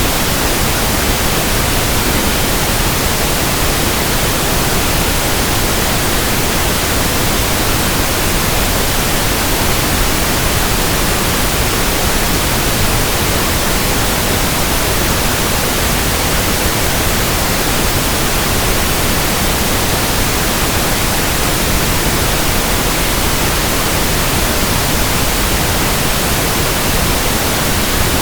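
Pink noise: a steady, even hiss, loud and unchanging, with no events or variation.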